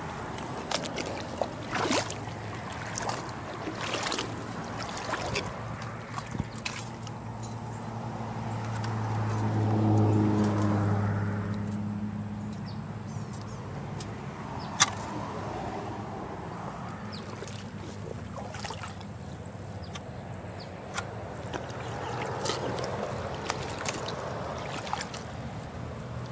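A motor vehicle passing on a nearby road, its engine hum swelling to a peak about ten seconds in and then fading away, over sloshing and splashing of feet wading through shallow creek water, with a few sharp knocks, one loud one about fifteen seconds in.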